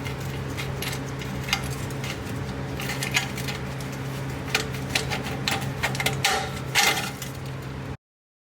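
Scattered sharp metallic clinks and taps of hand tools being worked on a car engine, over a steady low hum. The sound cuts off abruptly near the end.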